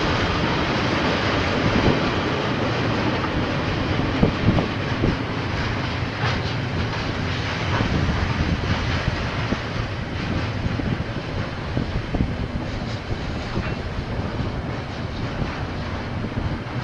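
KiwiRail train rolling past, a steady rumble of wagons with scattered sharp clicks from the wheels and rails.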